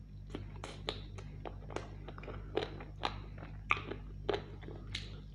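A person chewing and biting roast chicken: irregular wet smacking mouth sounds with sharp crunchy clicks.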